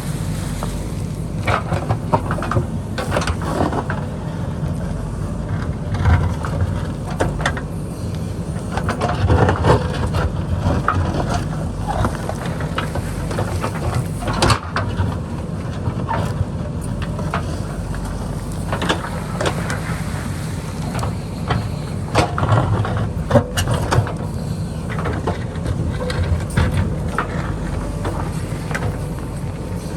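JCB backhoe loader's diesel engine running steadily under load, with frequent irregular knocks and scrapes of the bucket digging into rock and soil.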